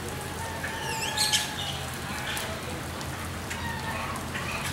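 Outdoor ambience over a steady background hiss and low hum, with a bird chirping briefly about a second in.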